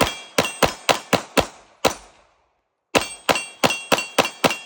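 Rapid 9mm pistol fire in two quick strings of about eight shots each, with a pause of about a second between them. Each shot is followed by a metallic ringing, as of steel targets being hit.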